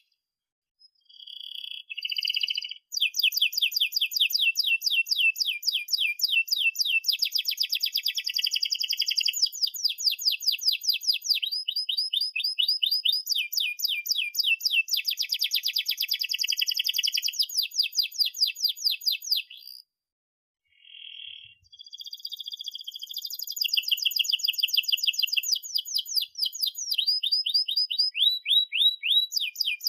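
Domestic canary singing long, rapid rolling trills of fast repeated notes, breaking off briefly about a second in and again about two-thirds of the way through.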